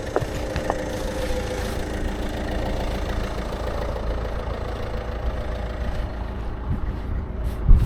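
A motor vehicle engine idling steadily, with a low drone and a few held tones. There is a sharp click just after the start and a thump near the end.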